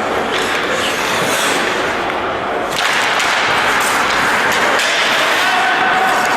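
Sounds of play in a large sports hall: a steady wash of noise with sharp knocks and cracks from the players' equipment, growing louder about three seconds in.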